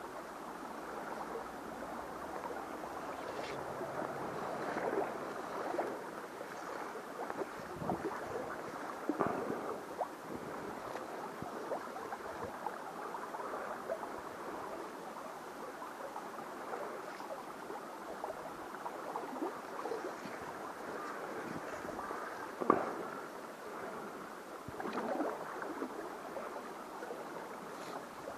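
Mountain stream water flowing steadily, with scattered small splashes and knocks, and one sharper knock about three-quarters of the way through.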